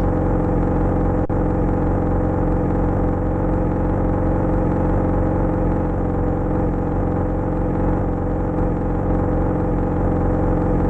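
Yamaha XJ6 motorcycle's inline-four engine idling steadily, with a single brief click about a second in.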